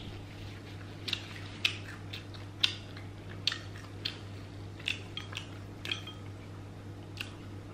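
Close-miked eating of fried chicken: irregular soft wet mouth clicks and smacks as she chews, about one or two a second, over a steady low electrical hum.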